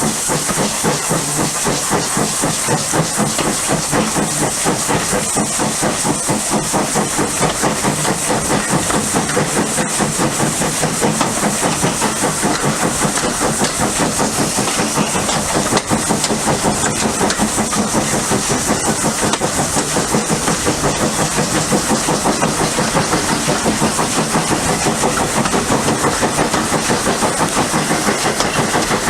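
Steam tank locomotive working, its exhaust beats coming quick and even over a steady hiss of steam.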